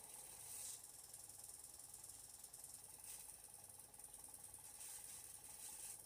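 Hoover Logic washing machine running faintly during its rinse stage, with a light mechanical ticking.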